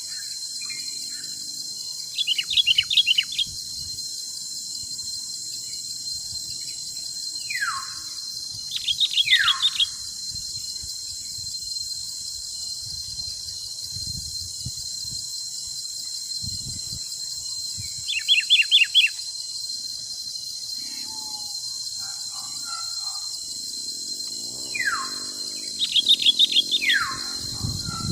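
Songbirds calling over a steady high insect drone of crickets or cicadas. Four short bursts of quick chirps come spaced several seconds apart, and clear whistles slide steeply downward, two of them each near the second and the fourth burst.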